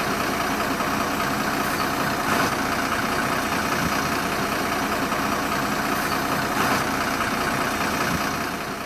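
Truck engine running steadily, fading out near the end.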